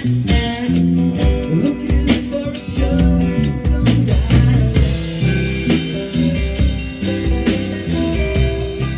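Band music with guitar and drums playing, with a steady beat.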